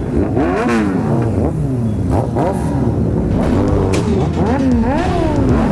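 Superbike engines revved hard again and again, the pitch climbing and dropping several times in quick succession, with sharp exhaust cracks among the revs.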